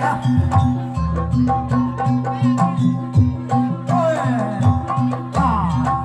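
Javanese jaranan ensemble music: rapid hand-drum strokes over steady gong and metallophone notes, with a sliding melody line rising and falling about four and five and a half seconds in.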